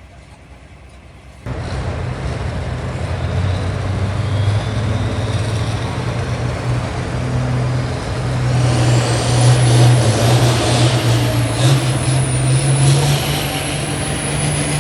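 Pulling tractor's engine running hard under load, starting abruptly about a second and a half in; its pitch edges upward, and a high whistle climbs in about halfway and holds.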